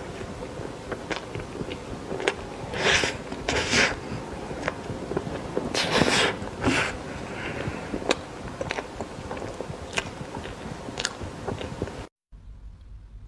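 Close-miked eating sounds: a person chewing and biting into a soft dessert, with many wet mouth clicks and a few louder smacking bursts. The sound cuts off abruptly about twelve seconds in.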